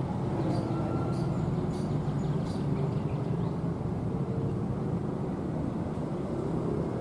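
Train at a station: a diesel locomotive's engine rumbling steadily, with a few faint high ticks in the first few seconds.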